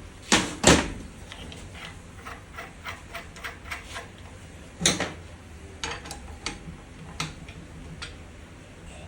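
Irregular metallic clicks and knocks of parts and tools being handled on a workbench during diesel injector repair. Two sharp knocks come close together near the start, another comes about five seconds in, and lighter clicks fall in between.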